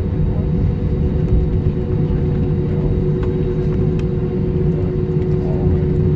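Jet airliner cabin noise as the plane rolls along the ground just after landing: a steady low rumble with a steady two-note hum over it.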